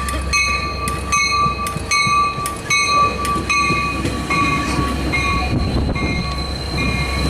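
Sounder commuter train pulling into the station with its bell ringing steadily, about two to three strokes a second, over the rumble of the train.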